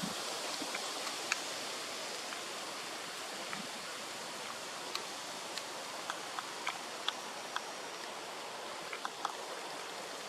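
Light rain falling: a steady hiss with scattered sharp ticks of drops hitting nearby surfaces at irregular intervals, coming more often in the second half.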